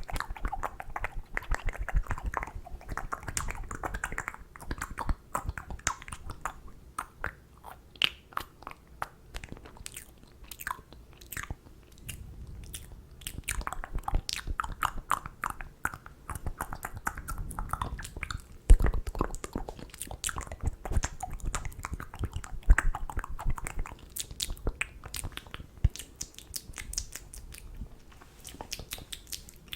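Close-miked ASMR mouth sounds: a dense, irregular run of wet clicks and smacks, with one louder thump about two-thirds of the way through.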